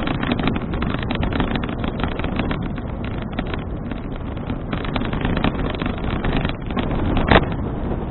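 Wind buffeting a bicycle-mounted action camera's microphone while riding, heard as a steady rumble full of crackles. There is one sharp knock about seven seconds in.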